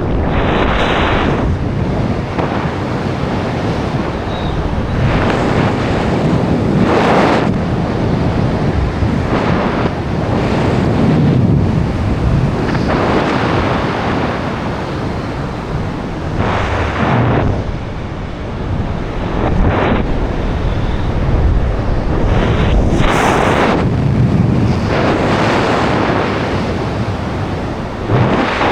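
Loud wind rushing over and buffeting the camera microphone in flight, swelling and easing in gusty surges every few seconds.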